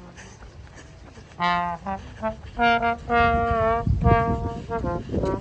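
A brass instrument, trombone-like, playing a tune of separate held notes, one sagging slightly in pitch, over a low rumble of background noise.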